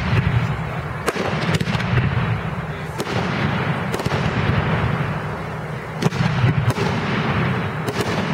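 Aerial fireworks display in full barrage: a steady rumble and crackle of bursting shells, broken by sharp bangs every second or two.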